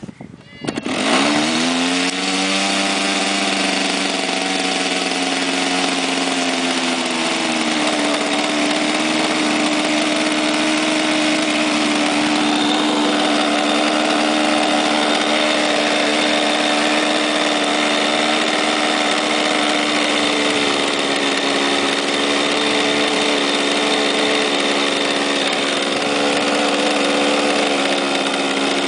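O.S. rotary (Wankel) model aircraft engine catching about a second in, its pitch dropping over the next few seconds as it settles into a steady idle.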